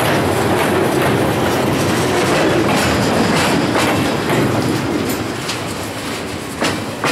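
Rail cars of a welded-rail train loaded with long strings of rail rolling past close by: a loud steady wheel-on-rail rumble and rattle, cut by repeated sharp clicks. It eases off a little in the last couple of seconds, with a sharp clack near the end.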